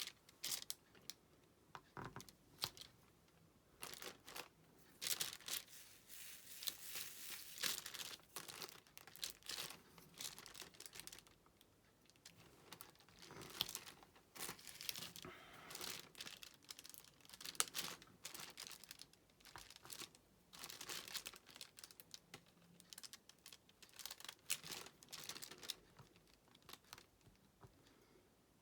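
Irregular crinkling and rustling of plastic with scattered small ticks and taps: diamond-painting work, handling the canvas's plastic cover film and placing resin drills from the tray.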